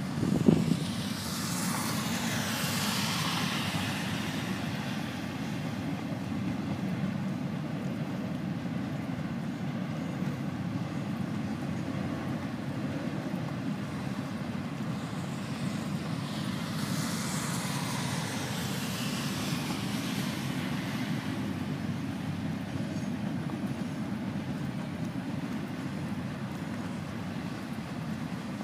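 Florida East Coast Railway freight train rolling past a grade crossing, a steady low rumble of freight cars going by. A single thump comes just after the start, and a hiss swells and fades twice, at about two and about seventeen seconds in.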